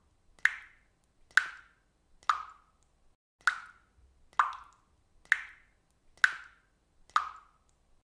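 Water dripping from a faucet, a single drop falling about once a second in a steady, slightly uneven rhythm, each one a short, sharp drip that fades quickly.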